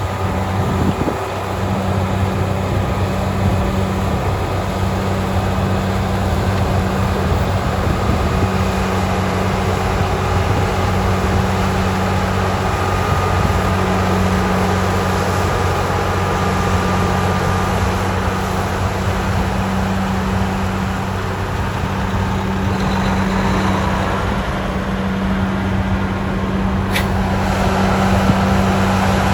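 Heavy diesel engines of snow-removal machinery, a rotary snowblower and dump trucks, running steadily at a constant pitch over a continuous rushing noise. A single sharp click near the end.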